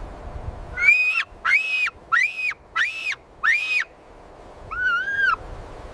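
An animal's high, whistle-like call repeated five times in an even series, then one lower call.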